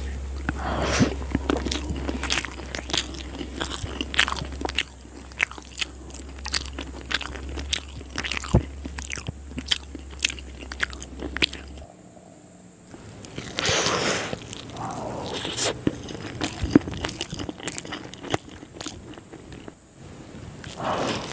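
Close-miked chewing and biting of boiled egg and schezwan noodles: many wet mouth clicks and smacks, with a short lull about halfway through.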